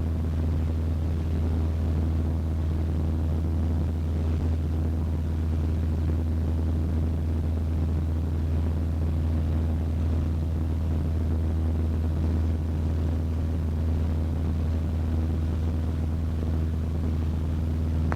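Cessna 152's four-cylinder Lycoming O-235 engine and propeller heard from inside the cockpit as a steady low drone at constant pitch.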